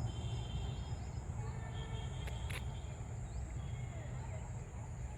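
Tractor engine running with a steady low rumble, with a constant insect drone and faint bird chirps over it, and one short click about halfway through.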